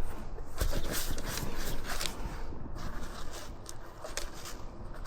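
Light clicks and scrapes of small metal CV-joint parts and balls being handled and cleaned in kerosene, several separate clicks scattered through.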